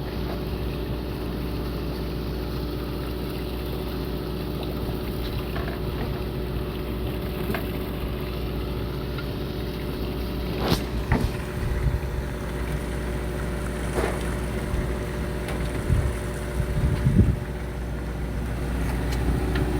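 A fishing boat's engine running with a steady low drone. A few short knocks and clicks come in the second half.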